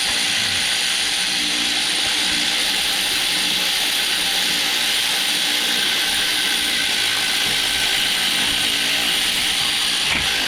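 Hand ratchet spanner clicking steadily as bolts are wound in or out on the gearbox.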